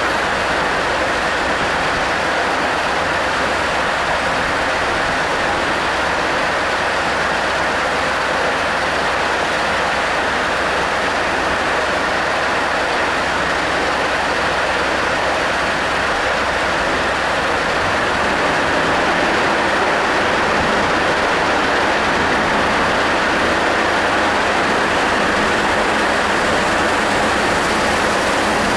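Combine harvester running steadily under load: a loud, even mechanical drone with no clear pitch, swelling slightly about two-thirds of the way through.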